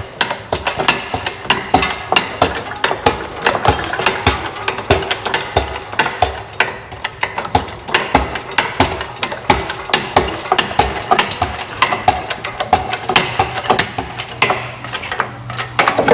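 Hand socket ratchet clicking in quick, uneven strokes as a bolt is worked on the Humvee.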